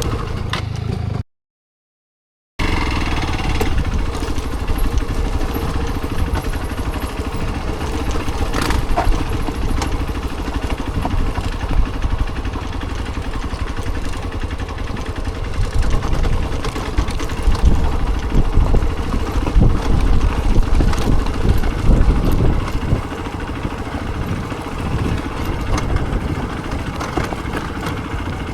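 A vehicle engine running steadily with heavy low rumble, cut off to silence for about a second near the start.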